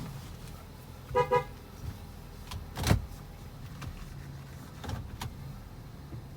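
2015 Ford Escape Titanium idling with a steady low hum. Two short beeps about a second in, a sharp thump just before three seconds, and two light clicks near five seconds.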